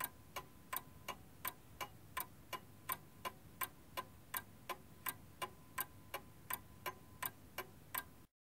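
Steady ticking, about three ticks a second, alternately louder and softer, with a faint steady high tone beneath it; it cuts off abruptly near the end.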